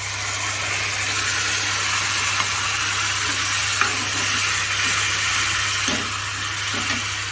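Onion, tomato, garlic and ginger masala sizzling in hot oil in a kadai as it is stirred with a steel spoon, with a few light clicks of the spoon against the pan. The sizzle swells over the first second and eases a little near the end.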